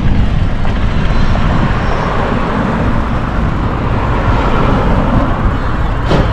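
Steady wind rush and road noise on the microphone of a moving bicycle, with a sharp click about six seconds in.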